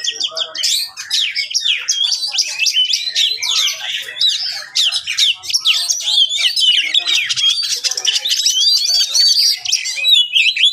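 Oriental magpie-robin (kacer) singing loudly, a fast, unbroken stream of varied sliding whistles and chirps.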